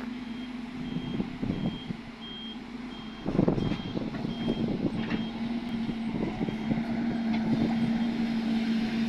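A vehicle's reversing alarm beeps in a steady high pattern, about one beep every half second or so, and stops near the end. Under it a diesel engine runs, with a loud rumbling burst about three seconds in.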